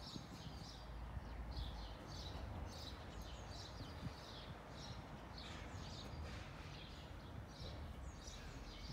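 A small bird chirping over and over, short high chirps about twice a second, over a steady low outdoor rumble.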